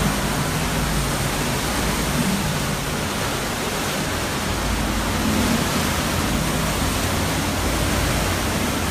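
Hurricane-force wind blowing hard and continuously: a dense, steady hiss over a low rumble that swells and eases.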